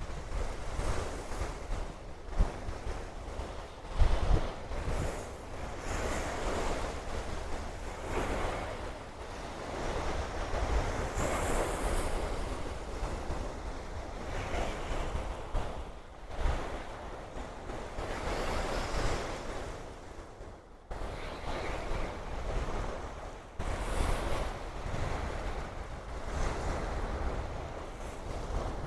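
Ocean surf washing in, swelling and fading every few seconds, with wind buffeting the microphone.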